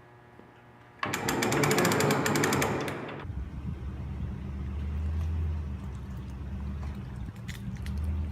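A boat engine catching with a loud, rapid burst of firing about a second in, then settling after a couple of seconds into a lower, steady idle.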